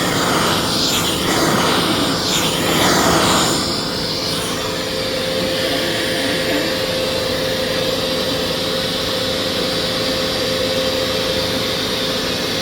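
Vacuum cleaner running with a pet grooming brush attachment worked over a dog's coat. The rush of air surges unevenly for the first few seconds, then holds steady with a steady hum.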